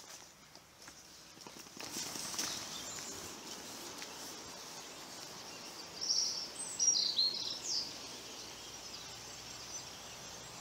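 Woodland ambience with a steady hiss that sets in about two seconds in. A few seconds later a small bird gives a quick run of short, high calls that slide downward.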